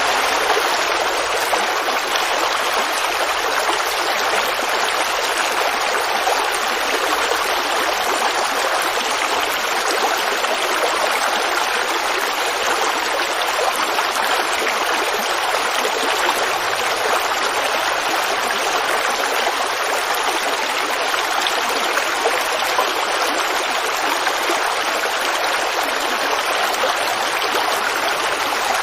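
Forest creek babbling and flowing over rocks in a steady, unbroken rush.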